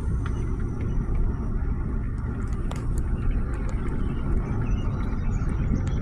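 A car driving, with a steady low rumble of engine and road noise and a few faint ticks.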